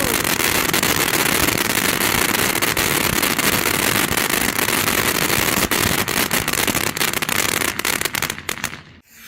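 Ground fountain firework spraying with a dense crackling hiss. It thins to scattered crackles near the end and dies out suddenly.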